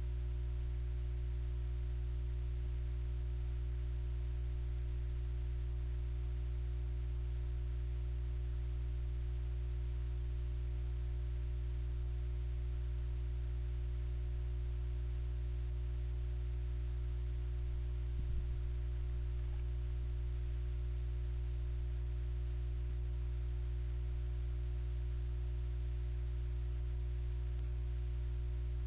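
Steady electrical hum, with one faint knock about eighteen seconds in.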